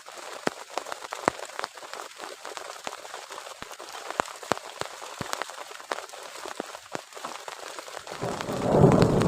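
Heavy rain falling, with many sharp close drops ticking against a surface. Near the end a loud low rumble swells in.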